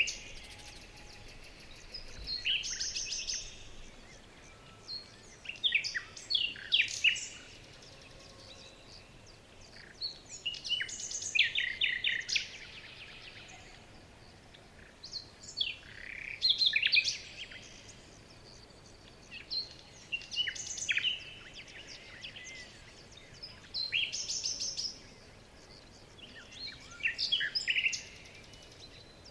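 A bird singing a short phrase of quick downward-sweeping notes and trills about every four seconds, over a faint steady background hiss.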